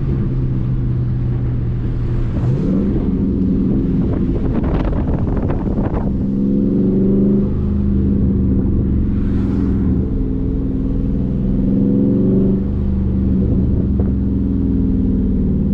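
The 2021 Dodge Charger Daytona 392's 6.4-litre HEMI V8 running while cruising, its note climbing gently under light throttle and dropping back at gear changes about two and a half and twelve and a half seconds in. A rattling, crackling noise breaks in about four to six seconds in.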